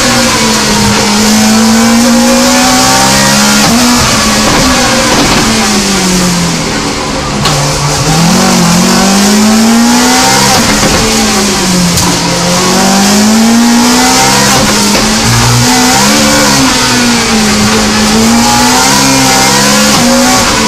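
Rally-prepared BMW Compact's engine heard from inside the cabin, revving hard and falling away again and again through gear changes and corners, with a brief lift-off about seven seconds in.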